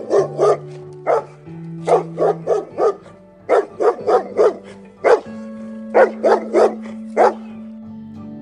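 A dog barking in quick runs of two to four short barks, over steady background music.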